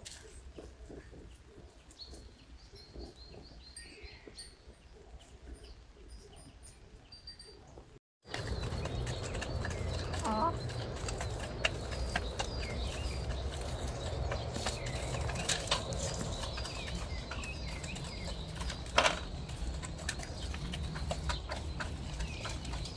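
Farmyard ambience: faint small-bird chirps at first, then, after an abrupt cut about eight seconds in, a louder low rumble with scattered clicks and a short animal call about ten seconds in.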